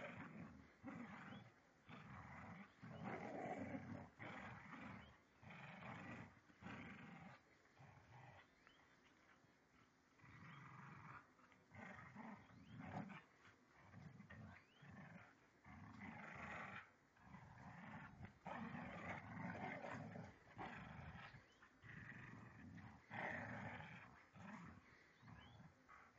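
Two dogs fighting, growling and snarling in irregular, repeated bursts.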